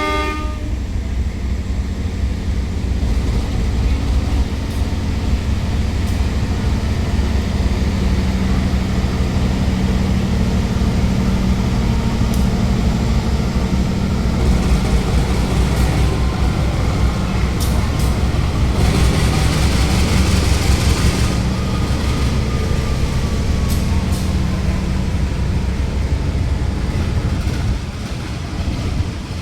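Diesel locomotive running past with a steady low engine rumble and rolling noise. A horn cuts off at the very start, a few sharp clacks come near the middle, and a faint whine slowly falls in pitch later on.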